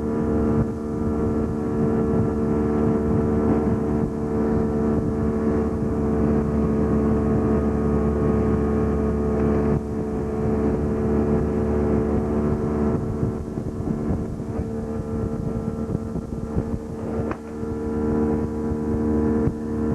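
A boat's motor running at a steady pitch, with no change in speed.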